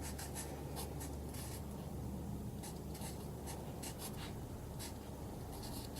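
Marker pen writing the date on a new air filter: a faint run of short, irregular scratchy strokes.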